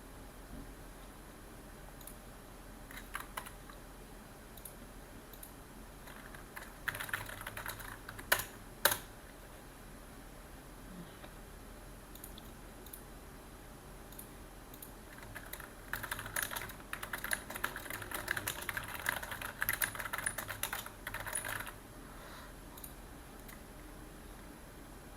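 Typing on a computer keyboard: a short burst of keystrokes about seven seconds in, ending in two louder, sharper key strikes, then a longer run of steady typing from about fifteen to twenty-two seconds, with a few scattered single key clicks in between.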